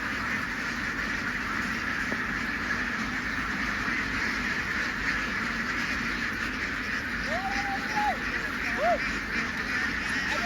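A large flock of domestic ducks quacking all at once, a dense steady din of overlapping calls, with a few single louder calls standing out about three-quarters of the way through.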